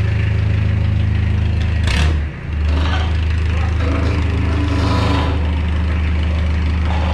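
Mitsubishi L300 engine idling through a newly fitted coiled-tube aftermarket exhaust muffler, a deep, steady bass drone. A little after two seconds in the sound briefly changes and dips before settling back to the same steady idle.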